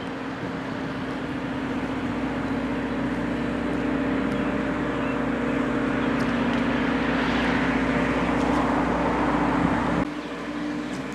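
Steady engine hum with a broad rushing noise, like a vehicle running; the low rumble drops away suddenly about ten seconds in.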